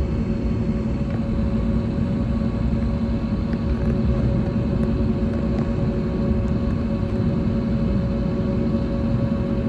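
Steady cabin rumble inside an Airbus A321neo on the ground after landing, with a constant hum of a few steady tones over the low noise.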